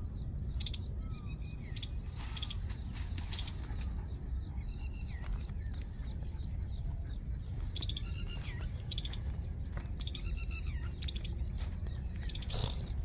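Birds chirping, a string of short high calls with quick falling glides every second or so, over a steady low rumble.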